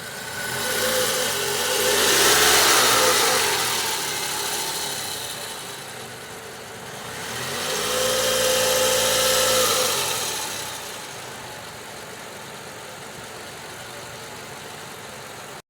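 Toyota Camry's 2.4-litre four-cylinder engine running warm and revved twice, each rev rising, holding for a couple of seconds and falling back to idle. This is throttle given to speed the warm-up while air is bled from the refilled cooling system.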